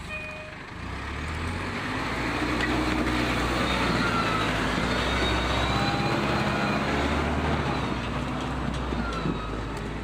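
Heavy timber truck's engine running hard under load, the noise swelling about a second in, holding loud, and easing a little near the end.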